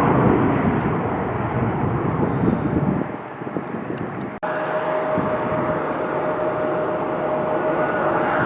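Airliner jet engine noise: a loud roar that eases about three seconds in, then, after a sudden break, a steady rumble with a thin steady whine over it.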